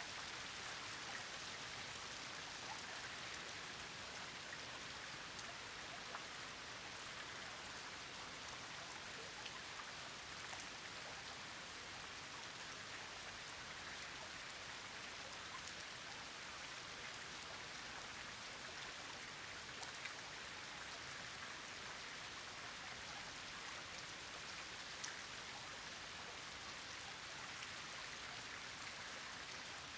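Steady rain falling: an even hiss with scattered sharper drop ticks, two of them a little louder about twenty and twenty-five seconds in.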